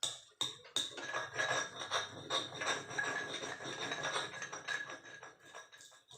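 Kitchen utensils clattering against a bowl or pot: rapid clinks and scrapes with a ringing metallic tone, starting suddenly and tapering off near the end.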